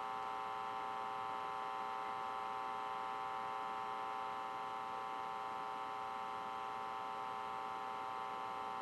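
Steady electronic hum of several held tones with a little hiss, from the launch webcast's audio played through a phone, unchanging in the pause between commentary.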